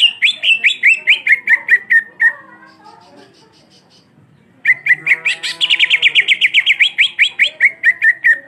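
Cucak ijo (green leafbird) singing a rapid roll of repeated downward-slurred notes: a burst of about two seconds, a pause, then a longer, faster run from about halfway through.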